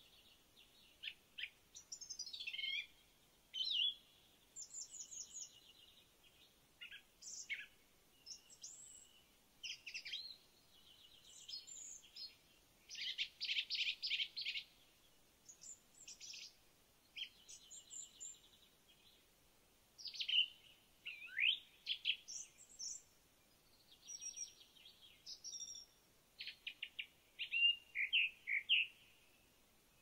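Songbirds singing: a continuous run of short, high phrases of whistles, chirps and rapid trills, one after another with brief pauses between.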